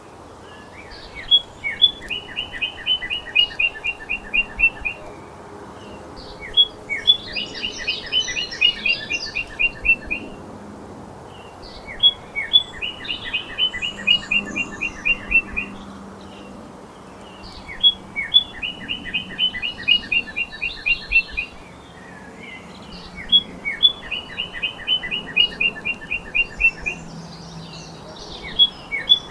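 A songbird singing the same phrase over and over, about every five to six seconds: one high note, then a quick, even run of a dozen or so short notes. Six phrases in all, with fainter, higher chirping in between.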